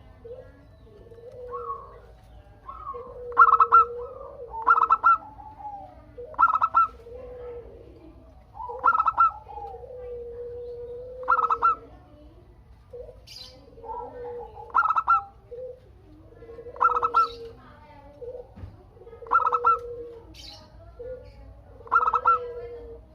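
Zebra dove (perkutut) cooing its song over and over, a phrase about every two seconds, each a low coo followed by a louder, higher note.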